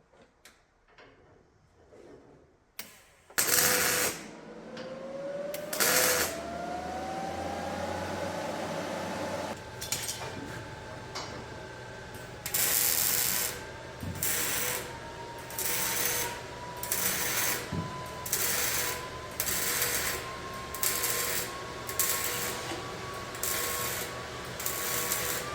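An electric power tool's motor spins up over several seconds to a steady whine. It then makes short loud bursts about once a second, roughly a dozen of them, as it works.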